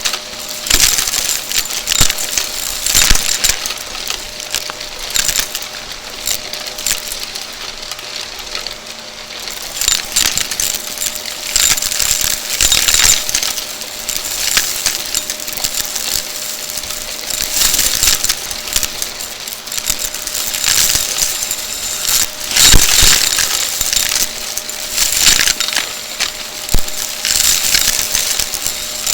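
Shark vacuum cleaner running with a steady motor hum while sucking up crunchy debris, a dense rattling crackle of bits hitting the nozzle and tube, with louder bursts every few seconds.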